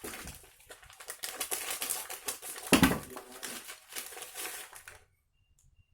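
Plastic snack packets crinkling as they are handled and torn open, with a louder crackle about three seconds in; the rustling stops abruptly about five seconds in.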